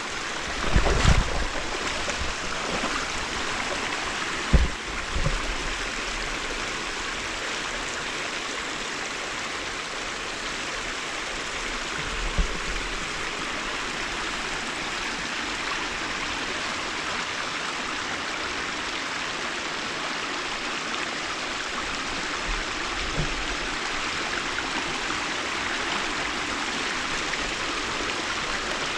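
Steady rushing of river water spilling over a beaver dam, with a few low knocks in the first seconds.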